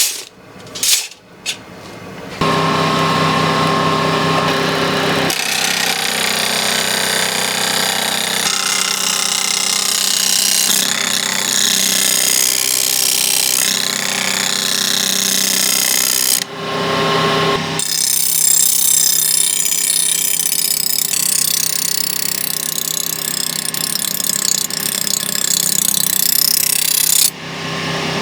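Electric grinder running against steel in long steady passes, a loud, gritty whir with a steady hum under it that breaks off briefly about halfway through.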